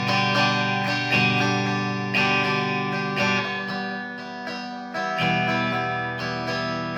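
G&L Legacy Tribute electric guitar with Alnico 5 single-coil pickups, played on a clean tone in the combined middle-and-bridge pickup position: a simple four-chord progression strummed with a new strum about every second, each chord left ringing.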